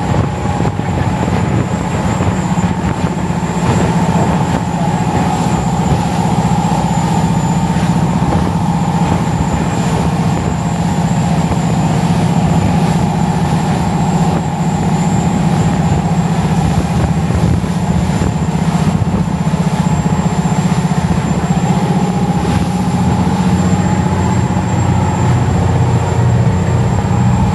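Fishing boat's engines running steadily under way: a loud, even drone with a fainter high whine over it.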